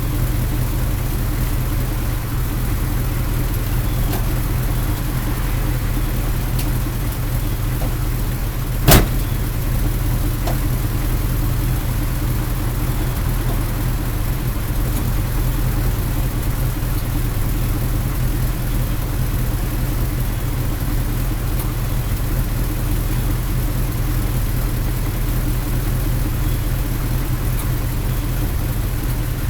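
Two engines idling together: a 1986 Chevrolet K30 M1008's 6.2-litre Detroit diesel and a 2001 Dodge Ram's 5.9-litre Magnum V8, running steadily. A single sharp click about nine seconds in.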